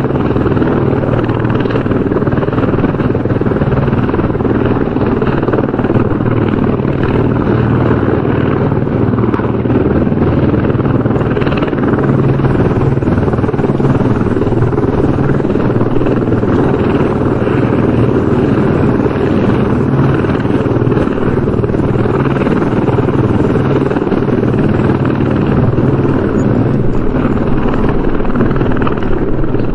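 Helicopter rotor and turbine sound, steady and loud, with a continuous low throb and no change in pitch or level.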